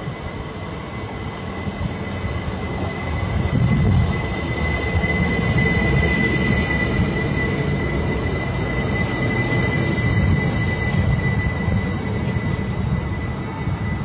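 Siemens-built Class 333 electric multiple unit pulling in and braking along the platform: a low rumble of the coaches rolling past, with a steady high-pitched squeal over it, growing louder from about four seconds in.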